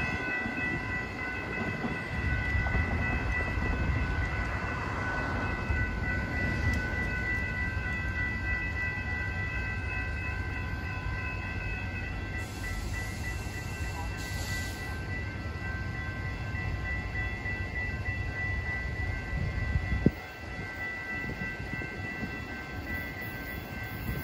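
Train running out of sight: a steady low rumble with several steady high tones over it. About 20 seconds in there is one sharp knock, and the rumble drops away.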